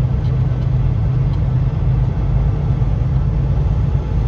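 Semi-truck engine and road noise heard inside the cab while driving, a steady low rumble.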